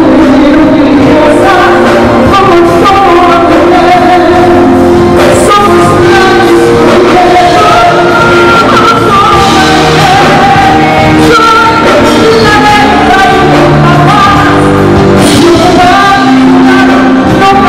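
Live vocal music: a singer holding long sung notes over instrumental accompaniment.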